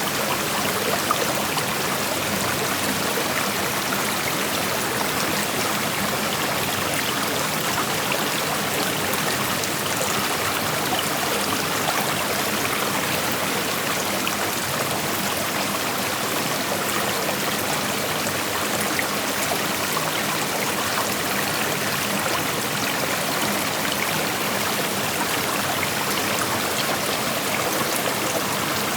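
Shallow creek flowing steadily over rocks: an even rush of running water with fine splashing and trickling, without any break or change.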